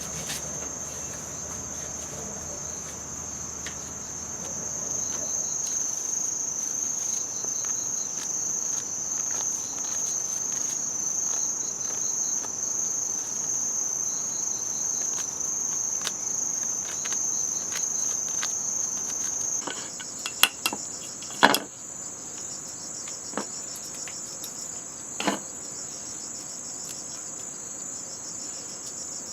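Forest insects shrilling in a steady high-pitched drone. About two-thirds of the way through, the drone shifts to a slightly higher, pulsing one, and a few sharp knocks or snaps come close together, with one more a few seconds later.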